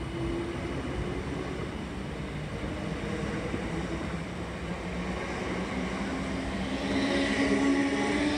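South Western Railway electric multiple unit moving past a platform: wheels rumbling on the rails, with a steady low hum. It grows louder, with a rising hiss, about seven seconds in.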